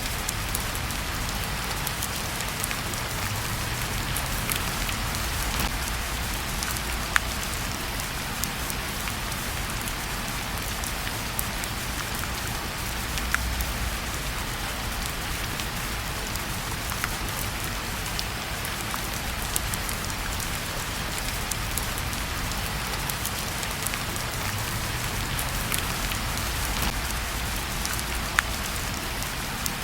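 Steady rain falling, with scattered sharp clicks and ticks.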